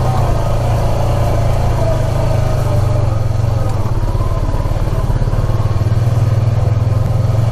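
ATV engine running steadily at a constant speed with a strong low hum and a faint wavering whine.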